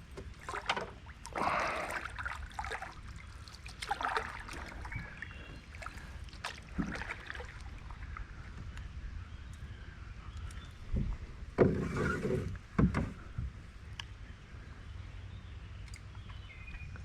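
Knocks and rustling from gear and hands moving about in a canoe while the hooks are worked out of a northern pike. Scattered irregular knocks over a steady low rumble, the loudest cluster about eleven to thirteen seconds in.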